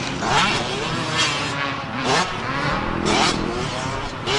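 Dirt bike engine revving up and down as it is ridden, with a louder throttle surge about once a second.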